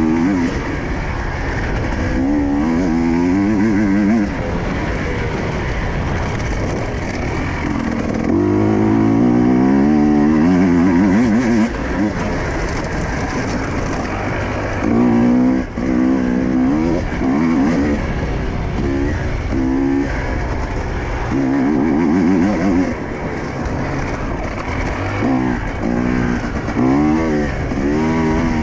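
Husqvarna enduro motorcycle engine being ridden hard off-road. Its pitch climbs and falls again and again as the throttle is opened and closed through the turns, over a steady rough rush of noise.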